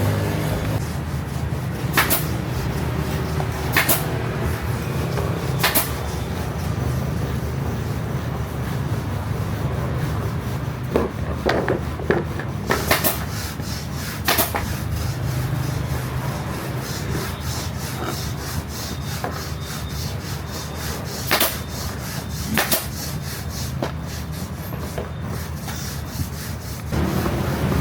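Rubbing and scraping from hand work on a motorcycle seat, with scattered sharp clicks and knocks, over a steady low background rumble.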